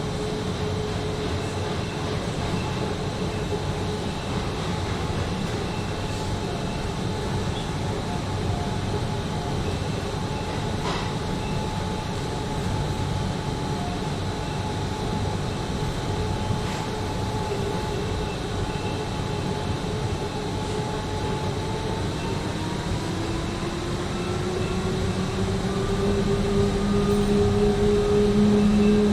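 Train carriage running along the track with a steady rumble and a constant motor whine. Near the end a whine rises in pitch and the sound grows louder.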